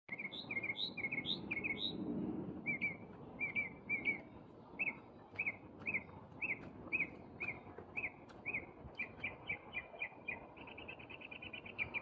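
A bird calling high overhead in a steady series of short, sharp chirps, about two a second, with a few higher upswept notes at the start. In the last few seconds the chirps quicken into a fast run.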